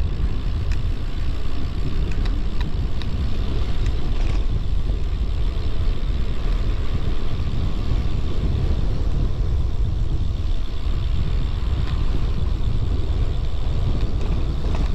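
Steady low rumble of wind and road noise on the microphone of a road bike being ridden, with a few faint clicks.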